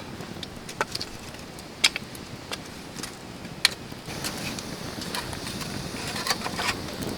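Wood campfire crackling over a steady hiss: a few separate sharp pops in the first half, then denser crackling from about four seconds in.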